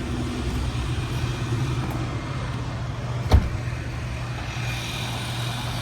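Car engine idling steadily with a low hum; a single sharp knock sounds about three seconds in.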